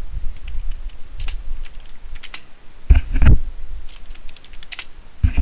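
Computer keyboard clicking in irregular bursts of keystrokes, with a few heavier dull thumps about three seconds in and again near the end.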